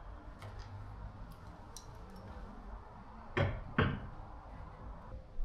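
Two sharp metallic knocks about half a second apart, a little past halfway, amid faint clicks and handling noise of parts being worked on a car's rear hub.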